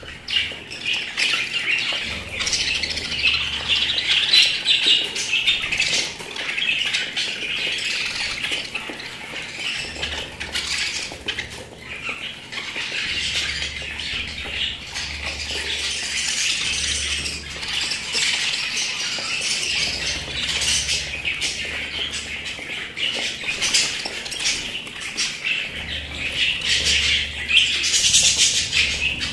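Pet budgerigars chattering and squawking, a dense, continuous warble of many overlapping calls with scattered sharp clicks.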